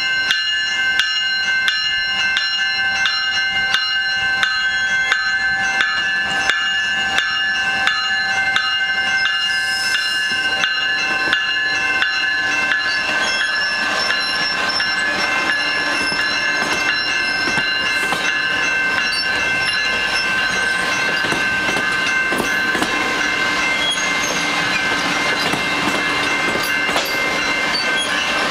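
GO Transit commuter train moving slowly, with a bell ringing about twice a second for the first dozen seconds, then steady wheel-on-rail noise building as the cars roll by.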